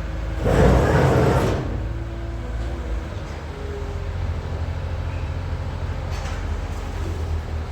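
Tractor engine running steadily with a low hum, with a loud rushing burst of noise lasting about a second just after the start.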